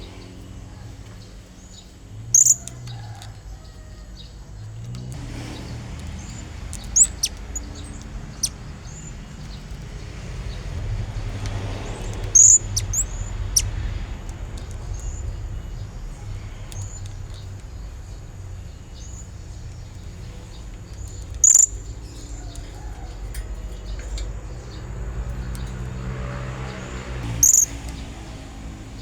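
Blue-crowned hanging parrot giving short, shrill, very high-pitched calls, the loudest four times spaced several seconds apart, with fainter chirps between: a calling bird used as a lure to draw in rivals. A low steady rumble sits underneath.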